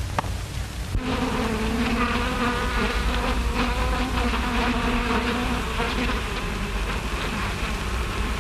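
A bee buzzing: a steady, slightly wavering drone that starts about a second in.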